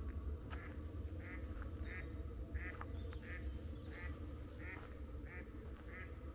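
Duck quacking in a steady, evenly spaced series, about one and a half calls a second, over a low steady rumble.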